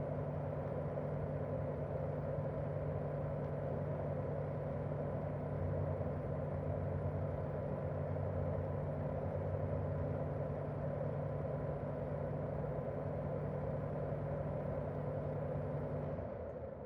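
Daikin R28RMV mini-split outdoor unit running in cooling mode: the steady whoosh of its propeller fan with the hum of its twin-cylinder swing compressor. The hum drops away and the sound quiets just before the end.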